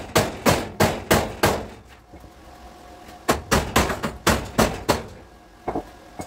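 Hammer blows on car body sheet metal: a run of about five strikes roughly three a second, a pause of over a second, then another run of about half a dozen, with a couple of lighter taps near the end.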